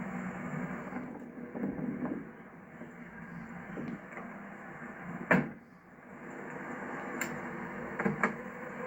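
Interior fittings of a car being handled: one sharp clack about five seconds in, then a few lighter latch clicks near the end, over a steady low hiss.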